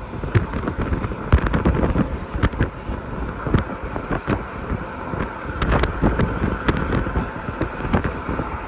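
Gusty storm wind buffeting the microphone in a dense run of irregular knocks over a steady low rumble.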